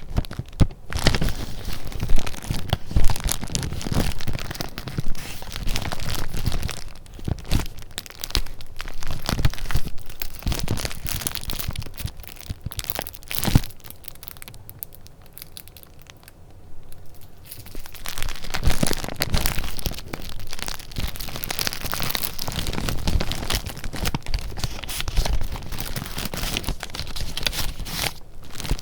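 Paper being handled: sheets and paper goods rustling, crinkling and tapping in quick irregular bursts, with a quieter lull in the middle.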